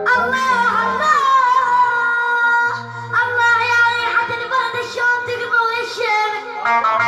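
Arabic song: a high solo voice sings a gliding, ornamented melody over backing music with a steady bass line.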